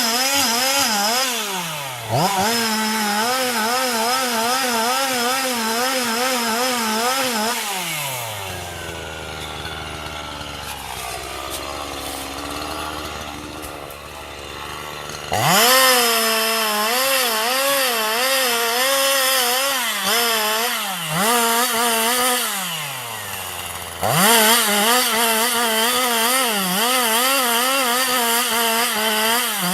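Two-stroke chainsaw running at high revs while cutting, its pitch wavering as the chain loads in the wood. About eight seconds in it winds down to a low idle for several seconds, then comes back suddenly at full revs. It drops and surges back once more later on.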